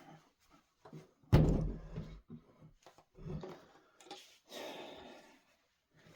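Heavy wooden furniture being knocked and shifted: one loud thump about a second in, then a few lighter knocks.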